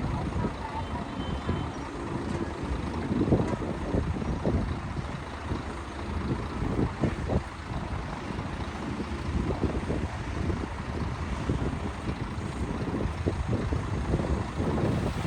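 Heavy diesel earthmoving machinery running steadily, a bulldozer and dump trucks at work moving soil, with irregular clanks and knocks over the low rumble.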